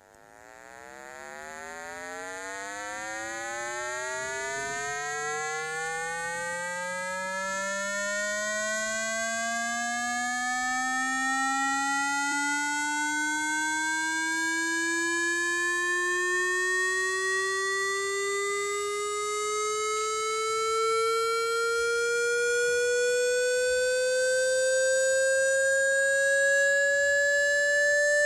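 A single clear pitched tone with many overtones, gliding slowly upward in pitch and growing louder; the rise is quickest at the start and then slows.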